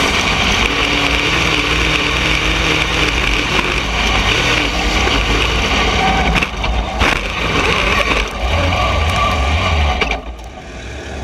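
Dirt late model race car engine noise with rough rattling, steady until it drops away about ten seconds in.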